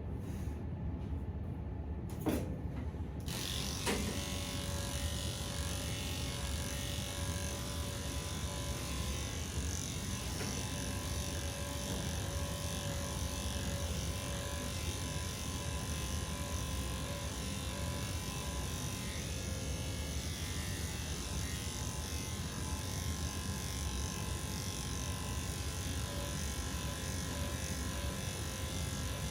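Electric pet clippers running steadily while shaving matted fur out of a cat's armpits. A couple of clicks come in the first few seconds, and the clipper sound fills out about three seconds in.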